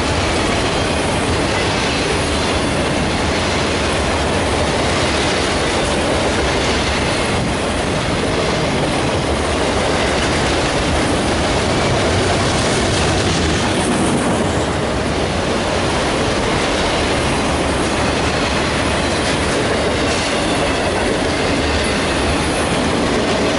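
Freight train of enclosed autorack cars rolling past: a steady, loud noise of steel wheels running on the rails that holds even throughout.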